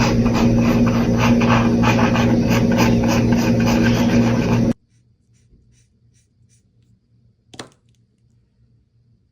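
Rapid scratching of alcohol markers on paper, dense and loud over a steady low hum, cutting off suddenly about five seconds in. After that it is nearly quiet, with faint ticks and a single short click near the end.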